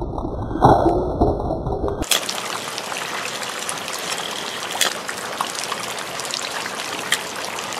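Steady hiss and trickle of rain falling, with a few sharp ticks scattered through it. For about the first two seconds a muffled low rumble covers it, then cuts off suddenly.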